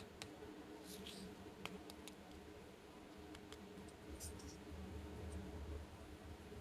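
Faint, scattered clicks and light taps of small plastic toy pieces being handled, about eight sharp ticks in the first four and a half seconds over a low steady hum.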